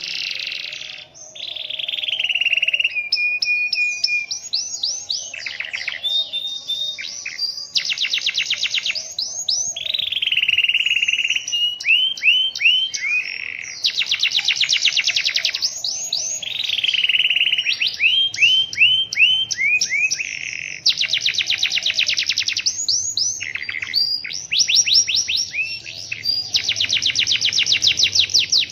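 Domestic canary singing a long, continuous song of fast rolling trills and quick rapidly repeated high notes, with only brief breaks between phrases.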